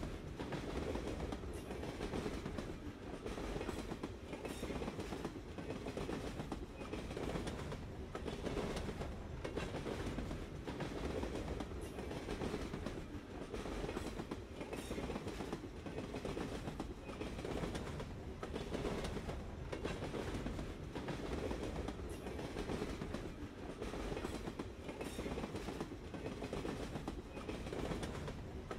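Train rolling along rails: a steady rumble with wheels clicking over the rail joints in a regular rhythm.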